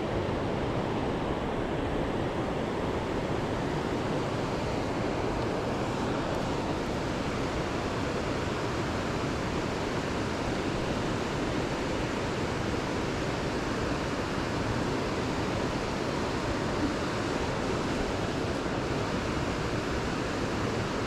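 Steady rushing water noise with no breaks or distinct events.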